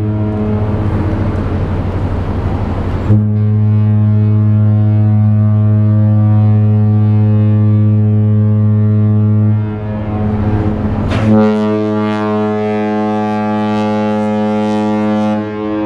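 Deep horn of the cruise ship Mein Schiff 3 sounding long, steady blasts as the ship leaves port, a departure signal. The tone drops off briefly about ten seconds in and comes back brighter and fuller about a second later.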